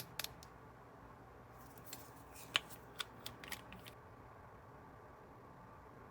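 Small packaged items being handled. There are a few light clicks at the start, then from about one and a half seconds in, roughly two seconds of plastic crinkling and ticking.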